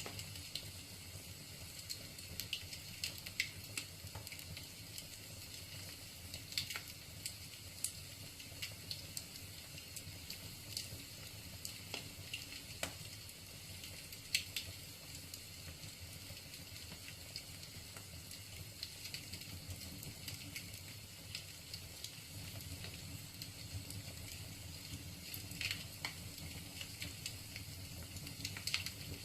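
Wood fire crackling in a fireplace: a steady hiss with frequent small irregular snaps and an occasional louder pop as the logs burn.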